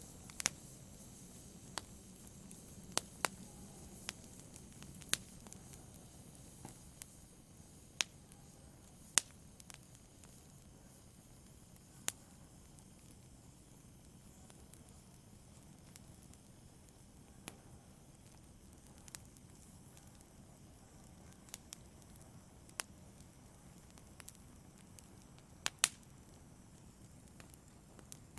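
Fire burning in a fireplace: a soft, steady hiss of flames with irregular sharp crackles and pops, more of them in the first half and a quick double pop near the end.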